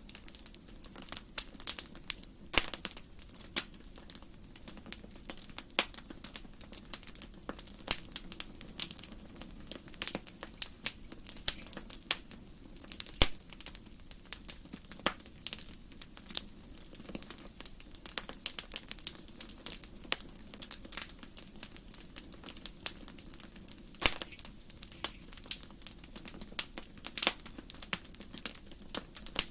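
Wood fire burning in a fireplace, crackling and popping in many irregular sharp snaps, some louder than others, over a faint low rumble of the flames.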